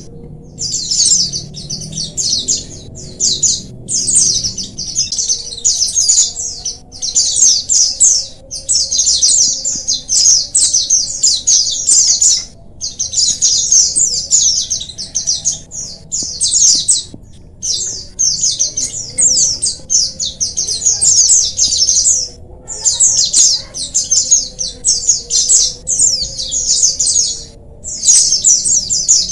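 A colony of white-eyes (pleci) singing together: fast, high twittering phrases in dense runs, broken by short pauses every few seconds.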